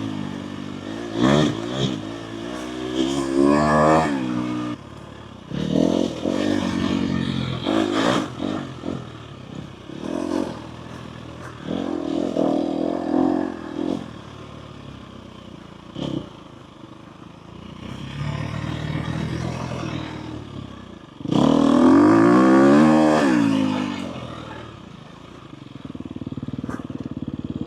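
Four-stroke dirt bike engine revving up and falling back again and again as the throttle is worked, with the loudest surge about three-quarters of the way through. Scattered knocks and clatter come from the bike over rough ground.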